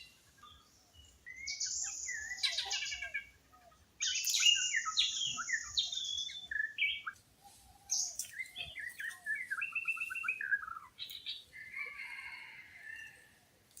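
Wild birds singing and calling: four bursts of quick, mostly falling notes a few seconds apart, with fainter chirps between.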